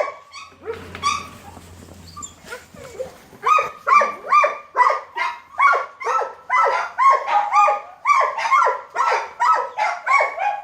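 A shelter dog barking: a few scattered barks at first, then from about three and a half seconds in a fast, steady run of high-pitched barks, about three a second.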